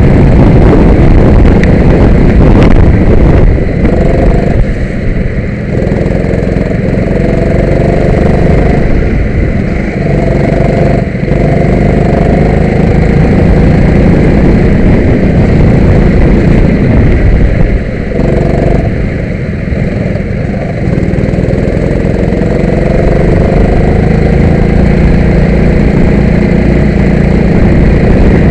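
Go-kart engine running hard, its pitch climbing again and again as it accelerates, with a heavy rumble underneath. It eases off twice, about four seconds in and again past the middle, then picks up.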